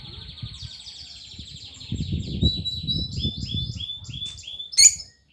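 A small caged bird singing: a fast trill, then a run of repeated down-slurred whistled notes, about two or three a second, broken by a sharp click near the end. A low rumble runs underneath the song.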